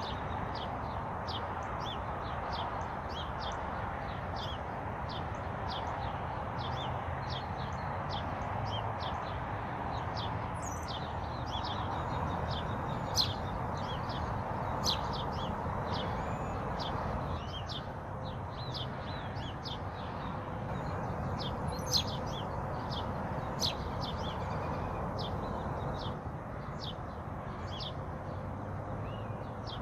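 Small songbirds chirping and tweeting, many short high calls overlapping one another, over a steady low rushing background noise.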